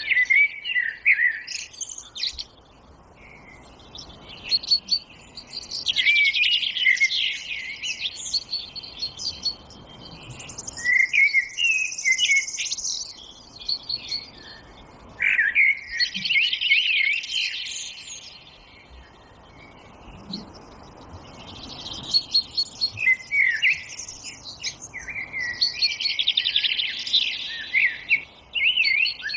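Forest songbirds singing: bouts of quick chirps, warbles and trills that come and go, with short pauses between the bouts.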